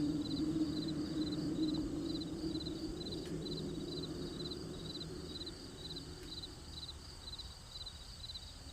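Crickets chirping steadily, evenly spaced pulsed chirps about two a second, over a low steady hum that fades away near the end.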